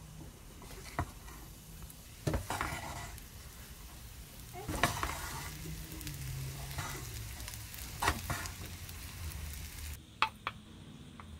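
Fried rice sizzling in a coated wok while a wooden spatula stirs and scrapes it, with several sharp knocks of the spatula against the pan. About ten seconds in the sizzle drops away, and the spatula clicks against a stainless steel bowl as rice is scooped into it.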